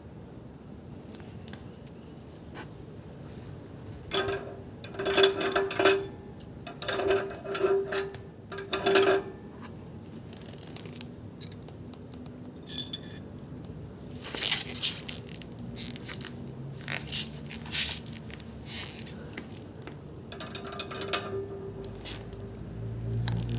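Metal clinking and scraping in several short bursts, with a ringing note.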